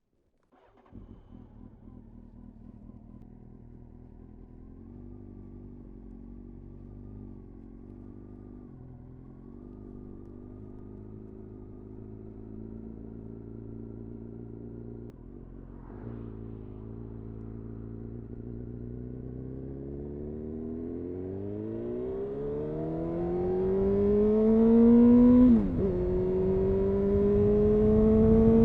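2000 Honda CBR929RR Fireblade's inline-four engine, breathing through an Erion full racing exhaust, starts about a second in and runs steadily at low revs. Near the end it accelerates hard, the pitch rising, with an upshift about three seconds before the end and another climb in revs after it.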